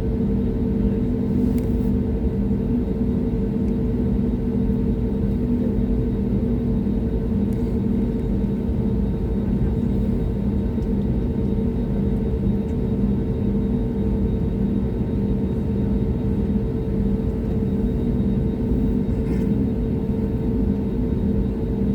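Airbus A320 cabin noise: the engines and airflow make a steady low drone, with a humming tone that throbs slowly, heard from inside the cabin.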